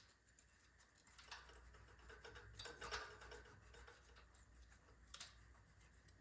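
Faint metal-on-metal scraping with a few light clicks: a feeler gauge blade being slid through the exhaust valve clearance on a small four-stroke engine to check the gap.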